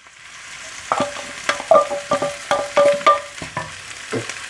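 Stir-frying in a hot pan, with ground meat and canned vegetables just added to scrambled egg: a steady sizzle, with a rapid run of knocks and scrapes from the utensil against the pan starting about a second in, some of them ringing briefly.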